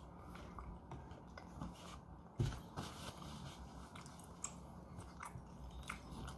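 Close-miked eating sounds: faint chewing and biting with small wet clicks and crackles, and a short louder knock about two and a half seconds in.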